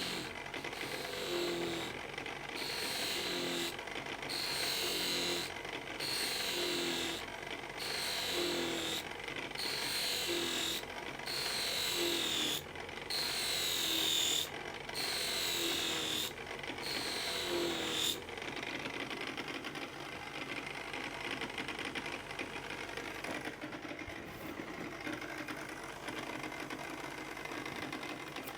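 An old electric motor turning a pulley-driven honing wheel, with a knife blade drawn across the wheel in about a dozen even strokes, one every second and a half or so, each giving a brief falling whine. The strokes stop about two-thirds of the way through, leaving the motor and wheel running on their own.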